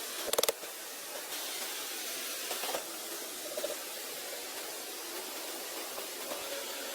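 Steady hiss of background noise, with a quick run of four or five sharp clicks about half a second in.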